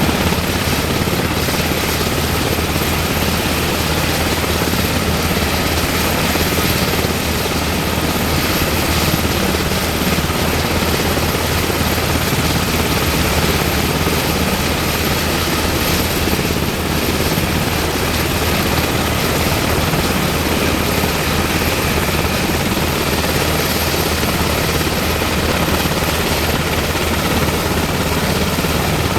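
UH-60M Black Hawk helicopter, its twin turboshaft engines and rotor running steadily with a constant turbine whine and no change in level.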